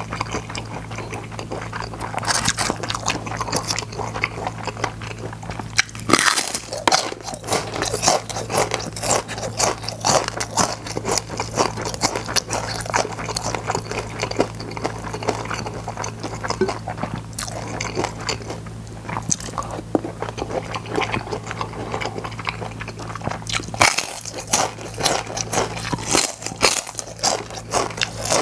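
Close-miked crunching and chewing of gim-bugak, crisp fried seaweed chips coated in glutinous rice, as a stream of dense, irregular crunches with heavier bursts of bites now and then. A steady low hum runs underneath.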